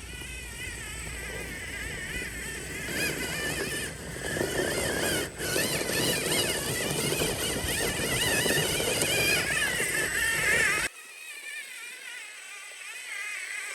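Whine of a 1/10-scale RC rock racer's brushless electric motor and geared drivetrain, rising and falling in pitch with the throttle as the truck crawls over rock. About eleven seconds in, the low rumble underneath drops away suddenly and a fainter whine continues.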